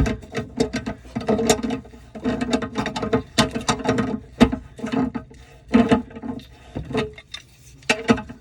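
Irregular clicks, knocks and short scraping rattles of hands-on plumbing work: parts and tools being handled and worked.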